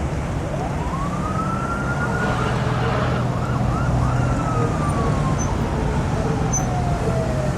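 An emergency vehicle siren wailing: one slow rise in pitch, a few quick yelps at the top, then a long slow fall. It sounds over a steady low rumble of engines.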